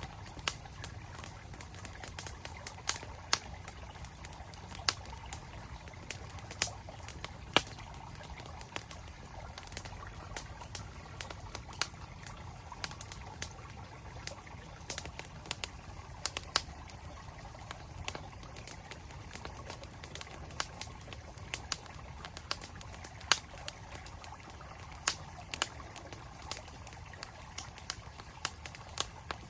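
Wood campfire crackling, with sharp pops at irregular intervals, over the steady flow of a mountain stream.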